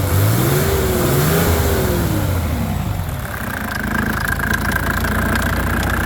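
Mercedes-Benz OM603 inline-six turbo diesel engine revved once, its pitch rising and falling back over the first couple of seconds, then idling steadily.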